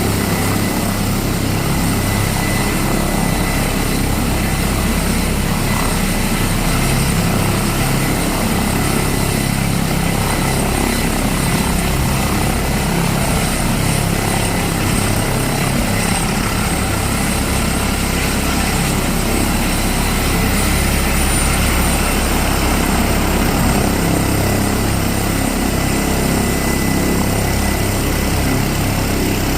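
Airbus ACH145 (BK117 D-3) helicopter running, its twin turboshaft engines and rotor heard as a steady, loud mix of low rotor beat and a high whine, with the whine dipping slightly in pitch about two-thirds of the way through.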